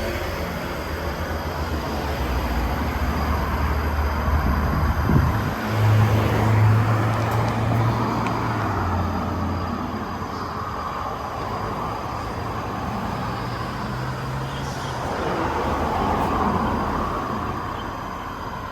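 Road traffic passing: a heavy vehicle's engine hum that steps up and down in pitch, with tyre noise swelling and fading twice.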